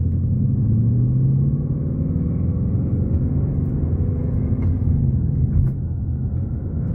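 Ford Mustang GT's 5.0-litre V8 heard from inside the cabin, pulling away under throttle with its note rising as it picks up speed. The level dips briefly near the end.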